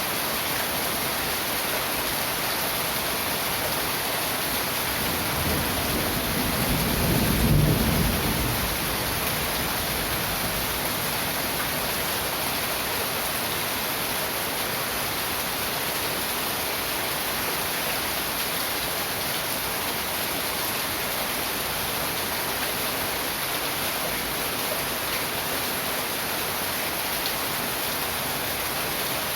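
Heavy tropical rain pouring down in a steady hiss. A low rumble of thunder swells and fades about seven to eight seconds in.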